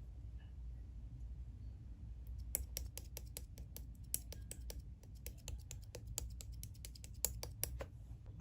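Slime being pressed and worked by hand, giving an irregular run of sharp clicking pops as air pockets burst, starting about two and a half seconds in and stopping shortly before the end.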